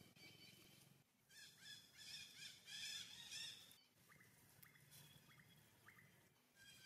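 Faint bird calls: a rapid warbling trill lasting a couple of seconds, then a few short rising chirps.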